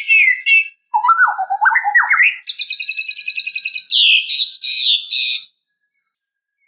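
White-rumped shama (murai batu) singing: a phrase ends just after the start, then a new phrase of rising warbled whistles runs into a fast high trill and finishes with a few falling slurred whistles.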